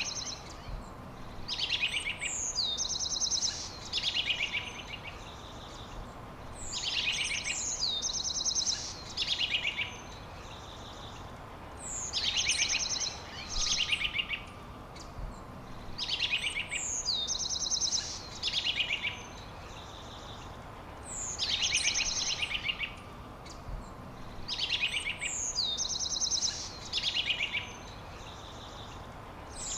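A songbird singing the same phrase over and over, about every four to five seconds: a whistle sliding down in pitch, then fast buzzy trills, over a steady background hiss.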